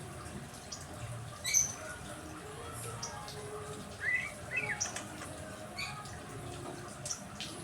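Caged songbirds giving short scattered chirps and squawks, the loudest about a second and a half in and a cluster of rising chirps near the middle, over a steady hiss of falling water.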